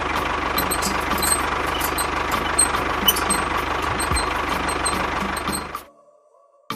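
An engine idling steadily with a faint irregular clicking, then cutting off abruptly about six seconds in.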